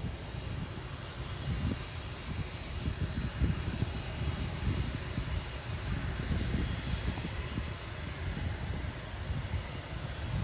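Airbus A380's jet engines running steadily, with a faint high whine over a low rumble and wind gusting on the microphone.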